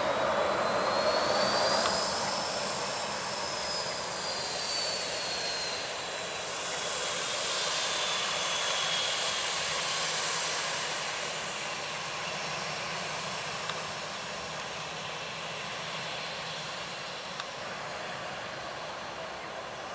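Airliner engines passing close by: a steady rush of engine noise with a high whine that climbs over the first few seconds, then slides down and fades about ten seconds in, while the rush slowly dies away.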